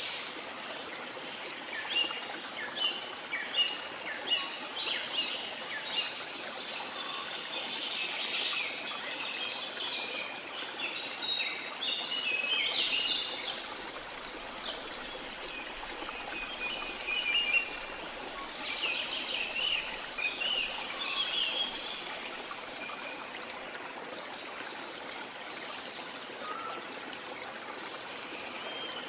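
Steady rush of waterfall water with a chorus of birds chirping and singing over it, a busy stretch of many overlapping calls in the first half and another burst of calls a little past the middle, thinning out near the end.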